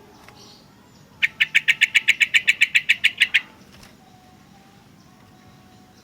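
Sooty-headed bulbul giving a rapid chatter of about eighteen sharp, even notes at roughly eight a second, starting about a second in and lasting about two seconds.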